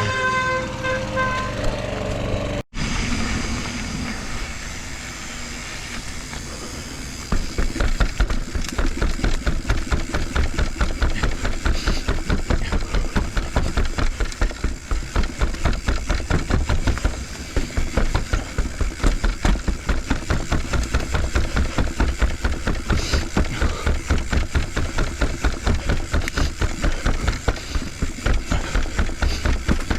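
Full-suspension mountain bike riding down a long flight of stairs: a fast run of repeated thumps and rattles as the tyres drop off step after step, with rolling rumble between.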